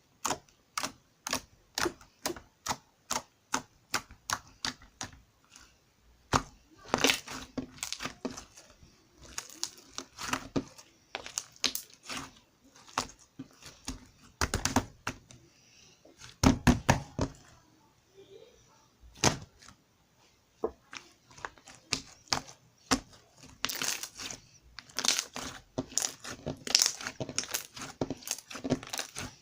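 Slime with air bubbles still trapped in it, pressed and squeezed by hand, giving sharp clicks and pops. The clicks come about twice a second at first, then in denser crackling runs.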